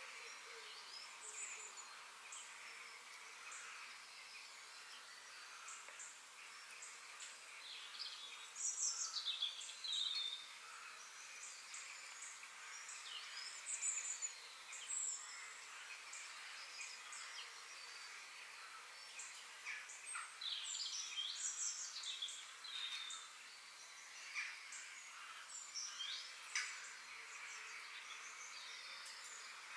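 Several forest birds chirping and singing over a faint, steady background hiss, with the calls busiest around 9, 14 and 21 seconds in.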